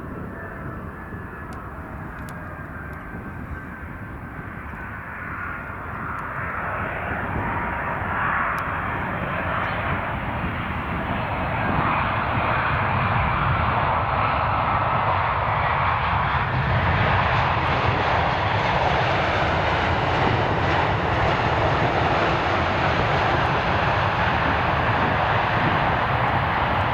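Aircraft engines of a passing airliner, a steady rushing jet noise with a faint falling whine at first. It builds over about twelve seconds and then holds loud.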